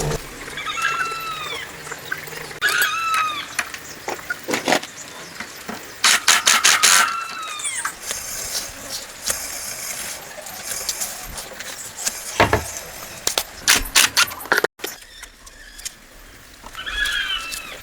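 Several short calls of an animal, each rising and falling in pitch, heard four times, among scattered clicks and knocks.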